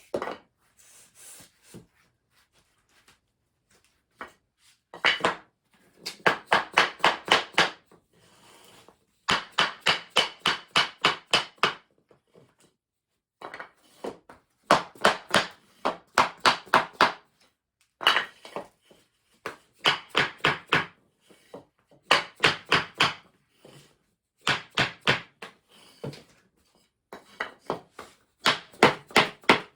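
Hammer blows on wooden sub-floor tiles, tapping the interlocking panels together. The blows come in quick runs of about four to five a second, each run lasting two or three seconds, with short pauses between runs.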